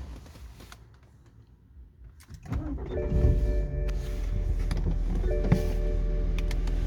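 BMW N43 four-cylinder petrol engine starting about two and a half seconds in, with a brief rise in pitch as it catches, then running at a steady idle. A few steady whining tones come and go over the engine.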